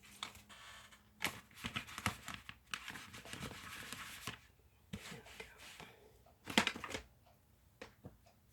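Rustling and rubbing as a clear-mount tree stamp on its acrylic block is wiped clean, with light clicks and knocks from the block being handled. The longest stretch of rubbing comes about halfway through, and a sharp click follows a few seconds later.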